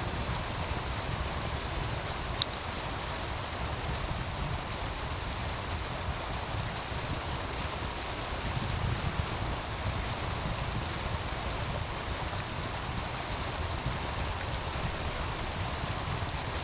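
A wood fire crackling beside a running meltwater stream: a steady rush of water under scattered sharp pops and crackles, with one loud pop about two and a half seconds in.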